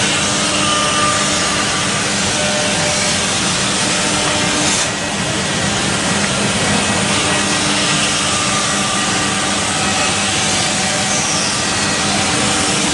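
CNC wood router machining wood: a steady cutting noise with faint steady tones underneath, easing off briefly about five seconds in.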